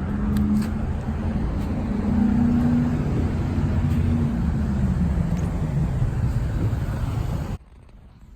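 Car driving: steady low engine and road drone, the engine note drifting slightly in pitch, cutting off suddenly near the end.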